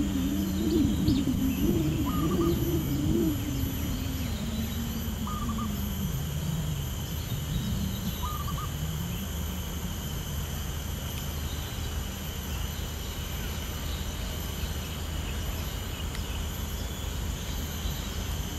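Birds calling: low hooting calls that waver up and down in pitch over the first half, fading out, with a short higher chirp about every three seconds, over a steady high-pitched hum.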